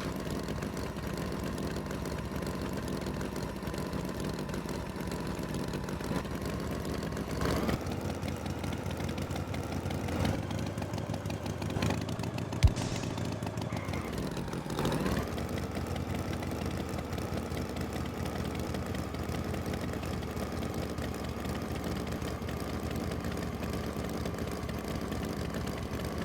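Engine idling steadily with an even low chug, with one short sharp click about halfway through.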